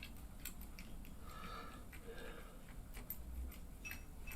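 Faint, scattered clicks and taps of small mounting hardware being handled.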